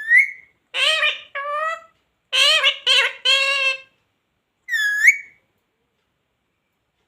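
Indian ringneck parrot talking: a short squawk, then two bursts of high-pitched mimicked speech, the second with about three syllables, then another short squawk about five seconds in.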